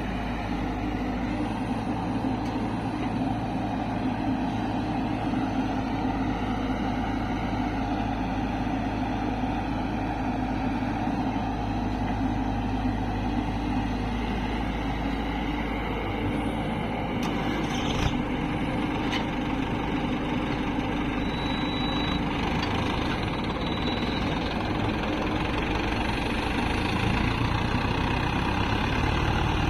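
Diesel engines of an excavator and tractors running steadily while mud is loaded. A few sharp knocks come about eighteen seconds in, and two brief high tones follow a few seconds later.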